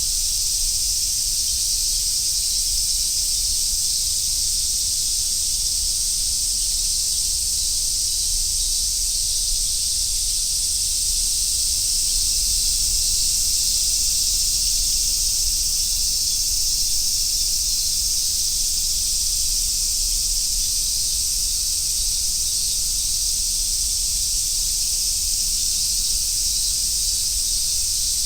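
Chorus of summer cicadas, such as large brown cicadas and robust cicadas, sizzling in one steady, unbroken high hiss.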